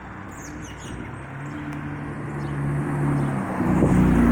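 A motor vehicle passing on a nearby road: a steady engine hum that grows louder toward the end as it comes closer.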